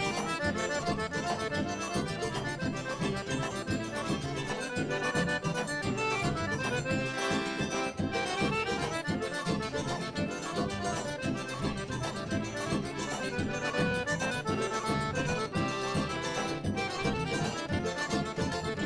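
Accordion-led traditional music playing continuously with a steady beat.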